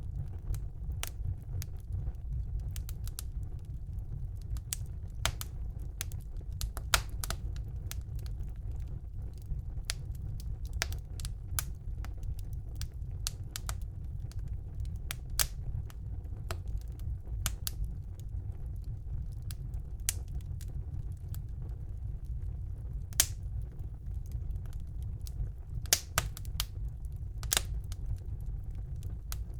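Wood fire burning in a fireplace: a steady low rumble with irregular crackles and snaps, a few louder pops now and then.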